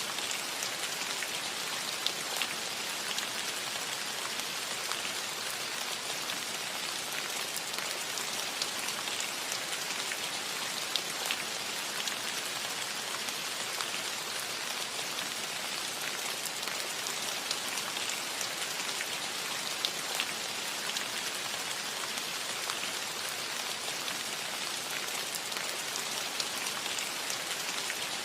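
Steady rain falling on a cottage roof: an even hiss with individual drops ticking sharply here and there.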